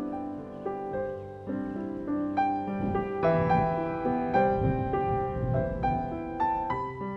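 Background music: a gentle solo piano playing a slow melody over chords, growing fuller in the low notes about three seconds in.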